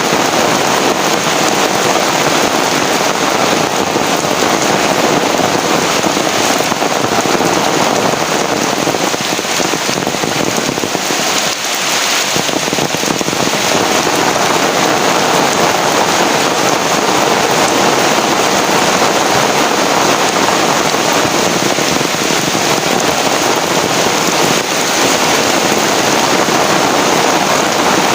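Heavy rain falling steadily, a dense, even hiss of drops on surfaces that dips briefly about halfway through.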